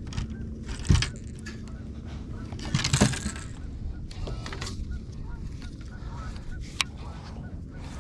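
Repeated short bird calls, goose-like honks, over a steady low background, with two loud thumps about one and three seconds in and a sharp click near the end.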